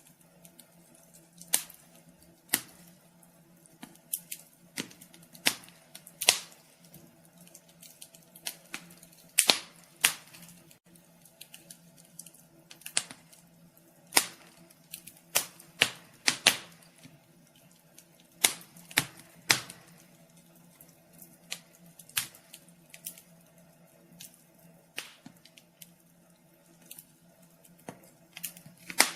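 Wood fire crackling in a fireplace: irregular sharp pops and snaps, some loud, scattered over a faint steady low hum.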